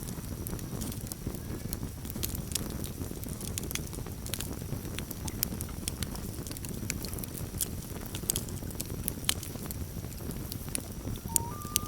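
Campfire crackling: frequent sharp pops and snaps over a steady low rumble of the burning wood. Near the end a common loon's call begins, a clear note that steps up in pitch.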